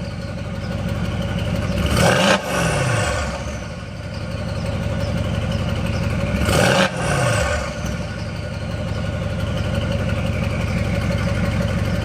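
Mercedes-AMG C63 S's 4.0-litre twin-turbo V8, fitted with MBH downpipes, idling with two quick throttle blips about four and a half seconds apart. Each time the revs rise sharply and fall straight back to idle.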